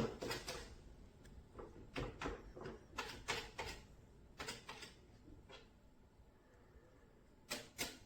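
A series of irregular clicks and knocks, some coming in quick clusters of two or three, with a quieter stretch in the middle before a last cluster near the end.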